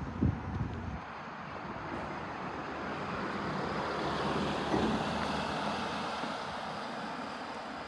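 A passing vehicle: a steady rush of noise that swells to its loudest about halfway through, then slowly fades.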